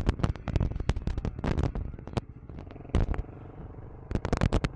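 KTM 390 Enduro R's single-cylinder engine running low as the motorcycle slows for a stop. It is mixed with many irregular sharp cracks and pops.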